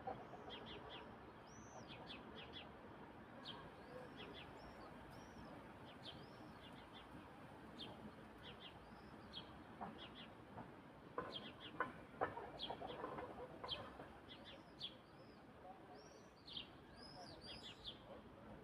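Faint bird chirping: many short, high, repeated notes throughout, with a cluster of louder, lower calls roughly two-thirds of the way through.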